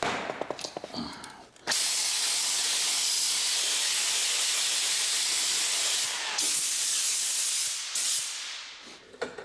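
A loud, steady hiss that starts suddenly about two seconds in, breaks off briefly twice, and fades away near the end, after a few light clicks and handling sounds.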